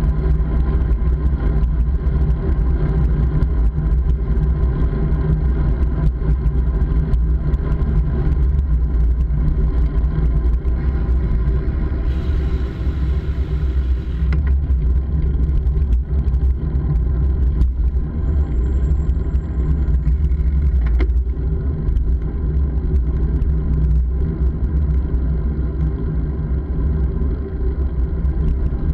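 Steady ride noise from a moving bike: a heavy low rumble like wind buffeting the microphone, over a constant hum.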